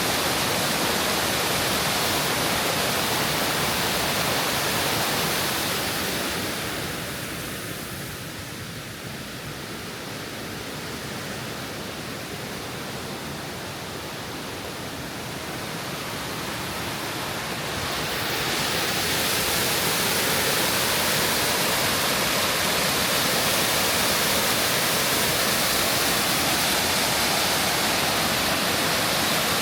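Steady rush of a waterfall on a mountain stream. About six seconds in, it softens and dulls for roughly ten seconds, then comes back to full strength.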